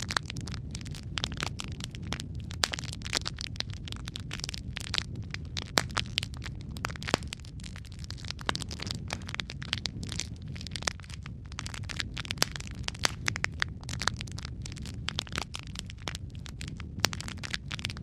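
Wood fire crackling steadily in a fireplace: a continuous low rumble of the flames with dense, irregular sharp pops and snaps throughout.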